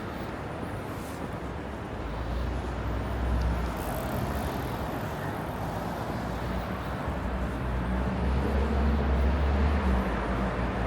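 City boulevard traffic: steady road noise with the low hum of passing vehicle engines, which swells about two seconds in and again in the second half as vehicles go by close.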